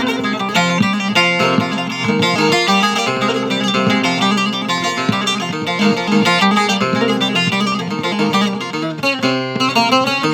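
Bağlama (Turkish long-necked saz) played in an improvised passage: quick plucked notes over steadily ringing lower strings.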